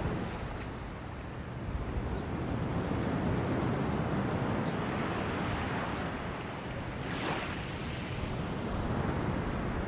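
Steady rushing of wind and sea waves, with wind buffeting the microphone, swelling and easing, and a brief hiss about seven seconds in.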